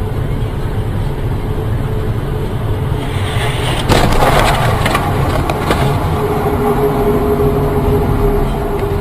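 Car cabin road and engine rumble, broken about four seconds in by a sudden bang and a second or two of crunching clatter: a vehicle collision. A faint steady tone follows.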